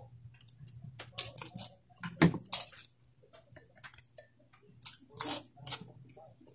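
Close eating sounds: chewing and crunching of fried dried fish and rice eaten by hand, in several short crackling bursts with small clicks between. A steady low hum runs underneath.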